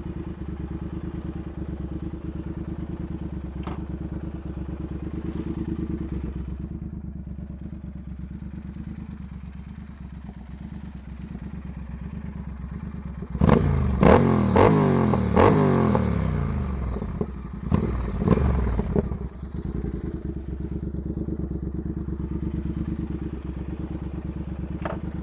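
Triumph Speed Twin's 1200 cc parallel-twin engine idling with a steady, even pulse, then revved in a run of quick throttle blips, with the pitch rising and falling, for about six seconds halfway through, before settling back to idle.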